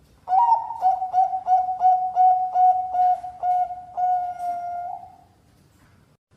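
Bangkok-type zebra dove (perkutut) singing one song phrase: a quick run of about ten short clipped coos, roughly three a second, ending on a held coo about a second long.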